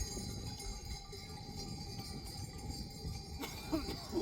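Livestock bells ringing and jingling steadily as a herd of goats and sheep moves about, with a brief pitched call near the end.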